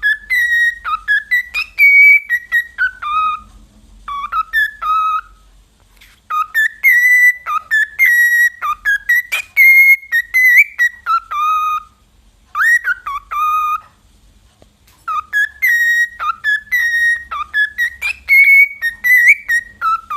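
A tune whistled in repeated phrases of short, clear notes that step down to a lower closing note, with brief pauses between phrases.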